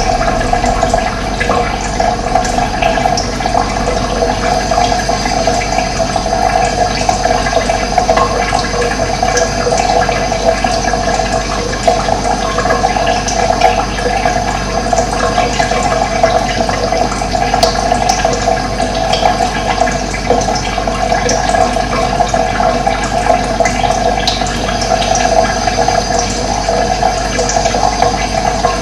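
Running water, a steady, continuous rush of flowing water.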